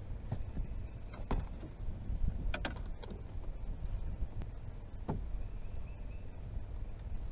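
A few sharp knocks and clicks of gear being handled in a small fishing boat, over a low steady rumble.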